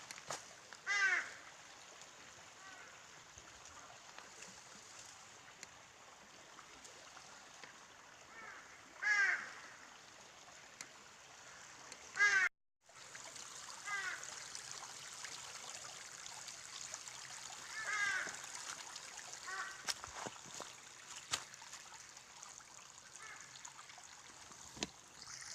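A bird calling in several short bursts of repeated notes a few seconds apart, over the steady rush of a stream.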